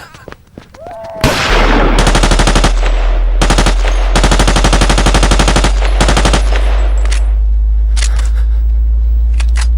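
Automatic gunfire in about four long, rapid bursts, followed by a few scattered single shots near the end, over a loud, steady, deep rumble that starts about a second in.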